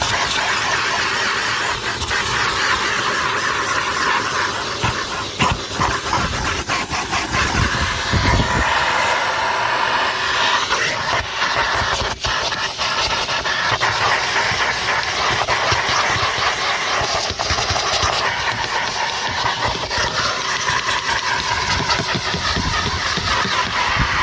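Numatic Henry HVR200-22 vacuum cleaner running steadily, its motor and the air rushing through the hose making a loud, even hiss, with scattered clicks and knocks.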